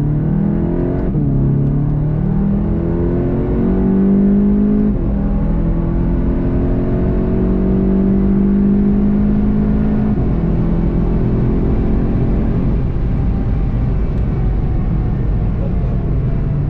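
VW Golf 7.5 GTI TCR's turbocharged 2.0-litre four-cylinder heard from inside the cabin under full throttle. Its pitch rises through each gear and drops at upshifts about one, five and ten seconds in, with road and wind noise underneath.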